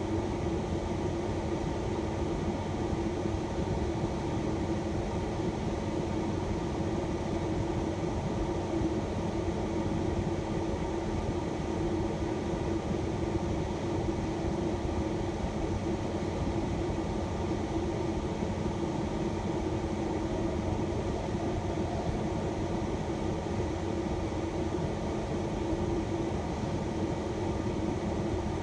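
Steady hum of a shuttle van running, heard from inside the cabin, with the engine and air-conditioning fan holding an even drone throughout.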